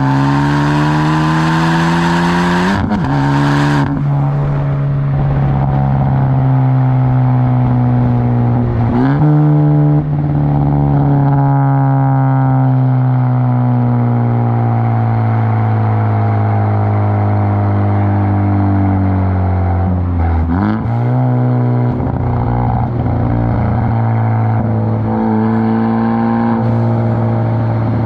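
2017 Ford Focus ST's turbocharged 2.0-litre four-cylinder running through a straight-pipe exhaust with no muffler, loud and droning while the car is driven. The engine note climbs and then drops sharply at a few gear changes, and in between it sinks slowly as the revs fall.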